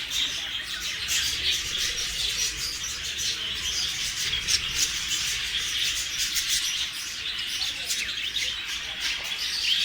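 A flock of budgerigars (budgies) chattering: a dense, continuous mass of high chirps and twitters.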